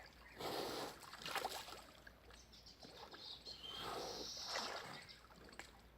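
Water splashing and sloshing in irregular surges as buffalo move about in a pool, with a longer surge about two-thirds of the way through.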